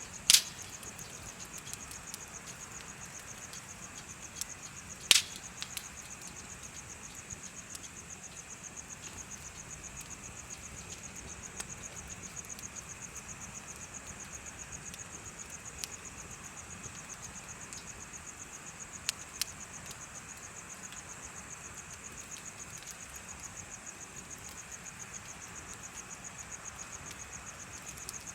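Insects chirping in a steady, rapid, high-pitched trill, over a bonfire's burning wood. The wood gives two loud sharp pops, one just after the start and one about five seconds in, and a few fainter snaps later.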